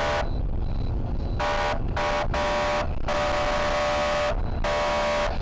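Car horn honking repeatedly: several short beeps and one longer blast of about a second, all at one steady pitch. Under it runs a steady low rumble of engine and road noise.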